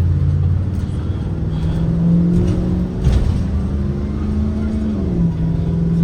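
A Blue Bird Vision school bus's propane engine pulling under acceleration, its pitch climbing slowly, then dropping as the transmission upshifts about five seconds in. There is a brief knock or rattle about three seconds in.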